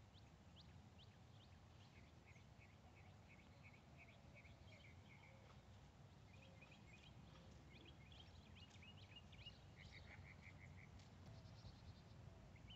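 Near silence: faint birds chirping in short quick runs, over a low, faint rumble.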